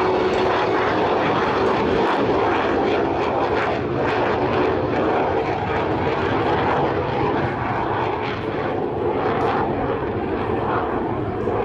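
Jet engine of an F-86 Sabre in flight, a steady loud roar as it makes a pass.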